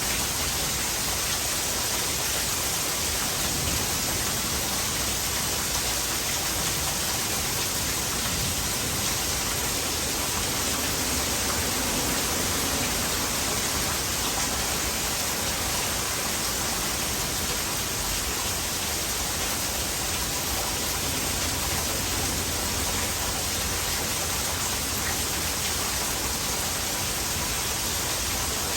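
Heavy rain with water running off into a gutter: a steady, dense hiss that stays level, with no thunder claps.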